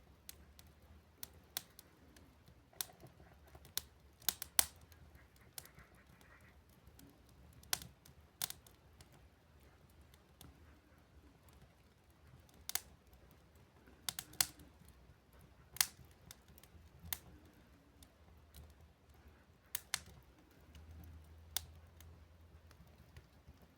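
Burning firewood crackling in a wood stove: scattered, irregular sharp snaps and pops over a faint low hum, some coming in quick pairs.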